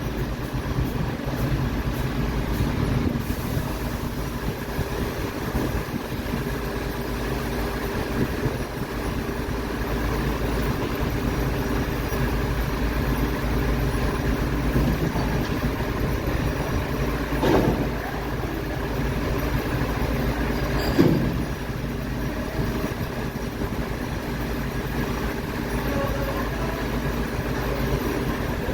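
MAN TGS 26.320 garbage truck's inline-six diesel engine running steadily. Two sharp knocks sound past the middle, about three and a half seconds apart.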